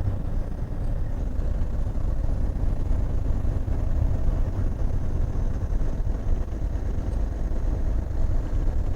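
Semi truck's engine and road noise heard from inside the cab while driving: a steady low rumble.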